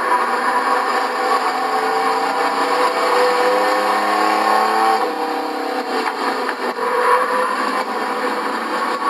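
Race trucks' engines running hard together around a short oval, several engines at once, with one engine's pitch climbing for a couple of seconds near the middle. The sound is thin, with no bass.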